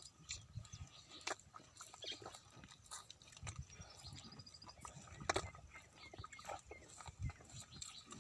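Irregular knocks, clicks and low thumps from a buffalo, with a bird's short falling trill of high notes about four seconds in.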